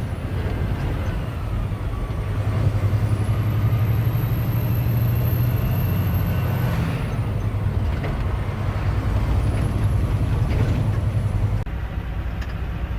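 Tractor-trailer's diesel engine running steadily under way, heard from inside the cab as a deep hum with road noise. The sound changes abruptly near the end.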